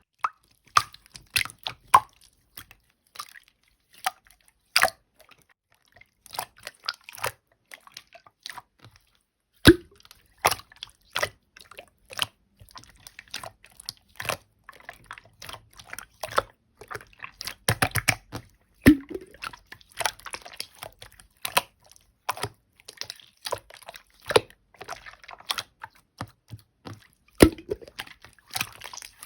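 Clear slime being squeezed and poked by hand, making irregular sticky clicks, small pops and squelches.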